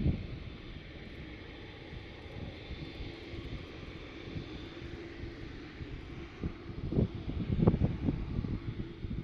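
Jet airliner engines at a distance: a steady low rumble with a faint steady whine. Wind gusts buffet the microphone in the last couple of seconds.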